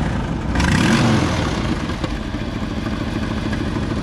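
Jeep CJ7 engine running just after a hard start, given a brief rev about half a second in and then settling to a steady idle. It sounds good now it has caught, after needing a lot of fuel to start.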